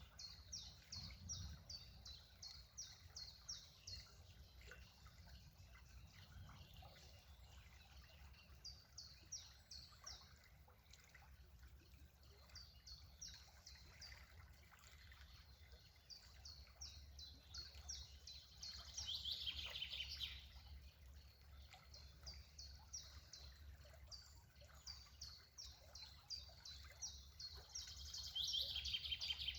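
Songbird singing quietly: runs of rapid, high, repeated chirp notes that come and go, twice ending in a louder falling flourish, about two-thirds of the way through and near the end.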